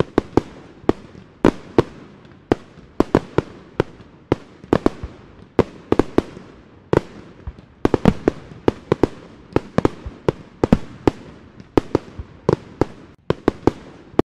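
Fireworks display: a rapid, uneven string of sharp bangs, two or three a second, each trailing off briefly.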